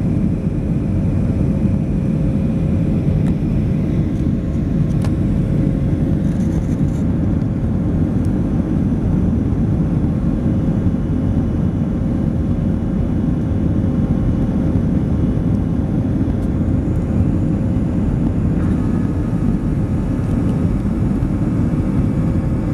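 Steady roar of an airliner's jet engines and rushing air, heard inside the passenger cabin while the plane climbs after takeoff, with a faint steady hum over it.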